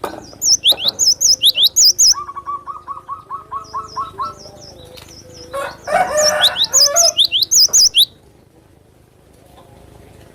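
Gelatik batu (cinereous tit) singing: loud, repeated, sharp high chirping phrases, with a lower run of quick short notes about two to four seconds in. The song stops at about eight seconds and the rest is quiet.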